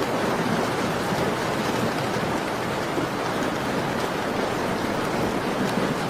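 Steady rain falling, a continuous even hiss of dense raindrops.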